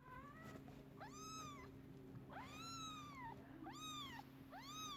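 A cat meowing over and over, about five meows, each rising and then falling in pitch. A faint steady low hum runs underneath.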